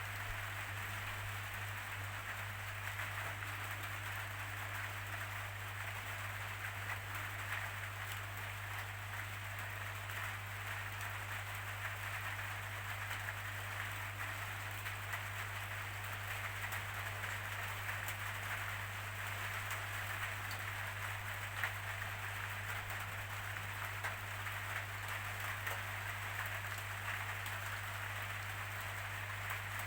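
Steady rainfall: a constant hiss of rain with fine individual drop patter, over a steady low hum.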